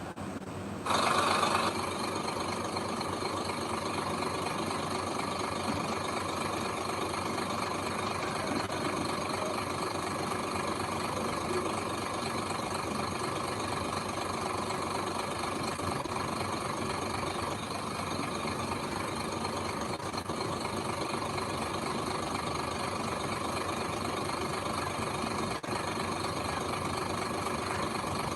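Heavy construction machine's engine running steadily. The sound steps up suddenly about a second in and then holds level.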